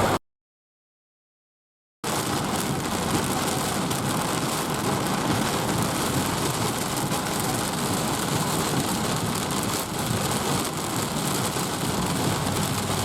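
Heavy rain pouring steadily, an even hiss of rain on surfaces. It follows a dead-silent gap of about two seconds at the start.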